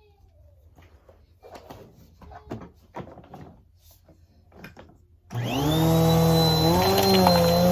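Vacuum cleaner switched on after a few faint knocks and clicks. Its motor spins up quickly, then runs at a steady, loud whine.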